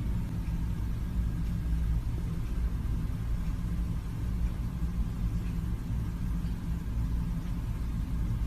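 A steady low droning rumble.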